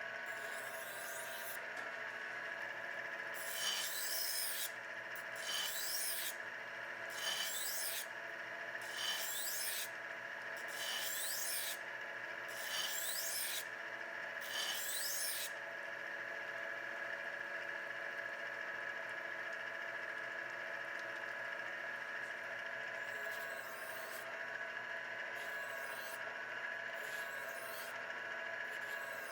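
Tru Hone HR8 knife sharpener's motor and honing wheels running with a steady hum, while a knife blade is drawn across the spinning polishing wheel in hissing strokes about two seconds apart: about seven strokes in the first half, then a few fainter ones near the end.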